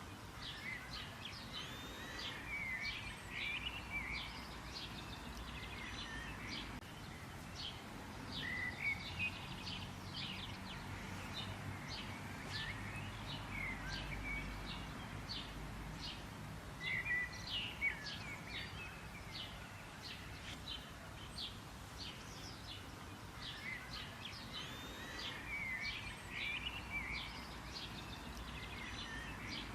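Several small songbirds chirping and twittering continuously: quick, high, overlapping chirps and short trills, a few louder ones standing out now and then, over a low steady rumble.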